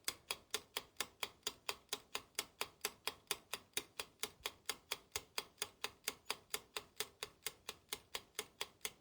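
Clock ticking steadily and evenly, about three sharp ticks a second.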